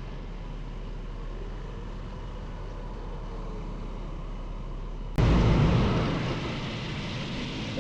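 Motorcycle riding noise: a steady low hum with a light rush, then an abrupt jump about five seconds in to much louder wind and engine noise that slowly eases.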